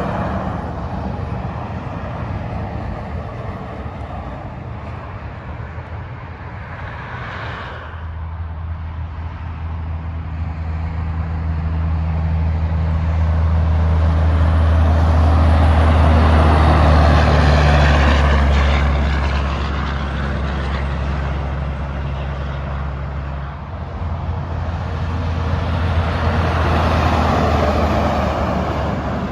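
Freeway traffic passing at speed: tyre rush swelling and fading as vehicles go by. A heavy truck's diesel engine drones steadily through the middle, loudest about halfway through, and another vehicle passes near the end.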